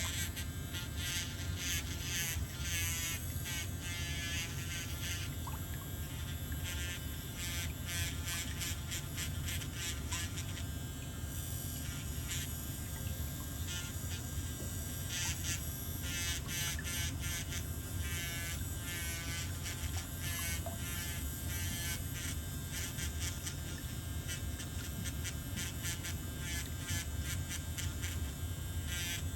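Electric nail drill running on a toenail: a steady buzzing hum, with scratchy grinding in clusters where the bit works the nail, about a second in, again near 8 to 11 seconds, for several seconds around the middle, and near the end.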